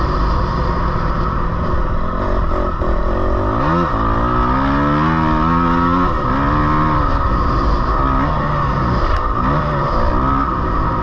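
Motocross dirt bike engine revving up and falling back again and again as it is ridden around the track, over a steady rushing noise.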